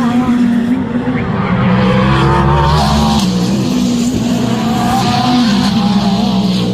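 Sports-prototype and GT race car engines running hard at speed, several engine notes overlapping, with the pitch dropping about three seconds in.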